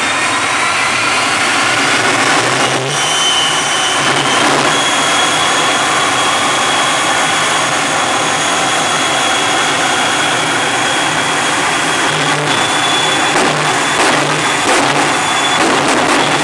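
Jet engines of a jet-powered drag racing truck running loud and steady, a high turbine whine over a continuous rushing noise, with a few short sharp cracks near the end.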